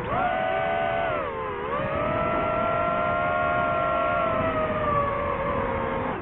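DJI FPV drone's motors and propellers whining. The pitch dips about a second and a half in, then holds steady and slowly falls.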